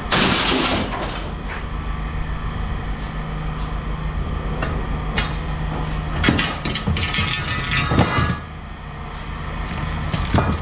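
Scrap being thrown and handled: a loud clattering crash at the start as an item with glass in it lands, then scattered metal knocks and clanks a few seconds later, over a steady low hum.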